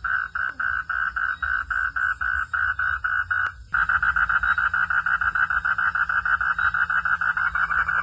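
Night chorus of frogs calling in rapid, evenly pulsed notes, about four pulses a second at first and quicker after a brief break about three and a half seconds in, over a low rumble.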